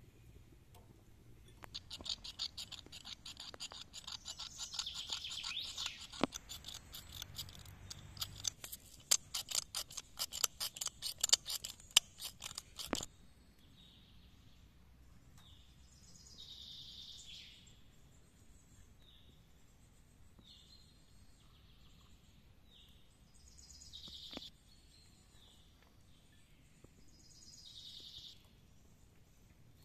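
Woodland birds calling, short chirping calls every few seconds. Over the first part a dense run of rapid clicks and crackles, the loudest thing here, stops abruptly about thirteen seconds in.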